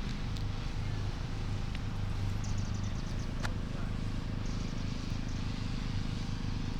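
Boat engine idling with a steady, low, pulsing chug, with a few faint clicks.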